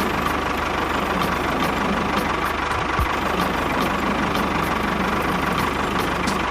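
A small engine running steadily, with a fast even throb and a thin steady whine above it.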